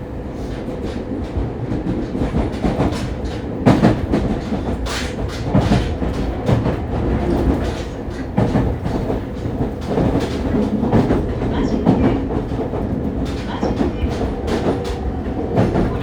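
Fukuoka City Subway 2000 series train (set 23, Hitachi GTO-VVVF) running on the line, heard from inside the car: steady wheel-and-track rumble with repeated, irregular rail-joint clacks.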